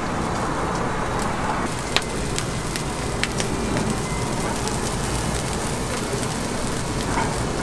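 Oak charcoal fire crackling: a steady hiss with scattered sharp pops.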